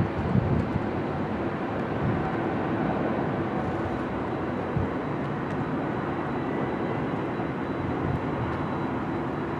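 Jet airliner engines with a steady rushing noise and a thin, steady high whine.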